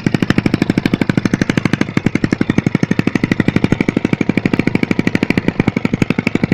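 Honda GL single-cylinder four-stroke motorcycle engine idling through a loud exhaust. It gives a steady, even rumble of about twelve beats a second.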